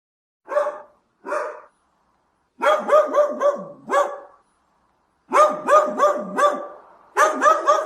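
Dog barking: two single barks, then three quick runs of several barks each.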